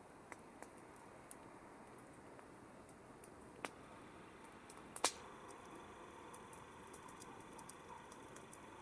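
Campfire burning with a soft hiss and scattered sharp crackles and pops from the wood, the loudest pop about five seconds in.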